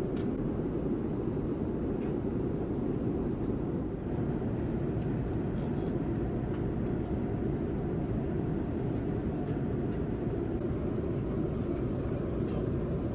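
Steady cabin noise of a Boeing 787-9 airliner in flight: an even, low rushing drone of airflow and engines, with a few faint clicks.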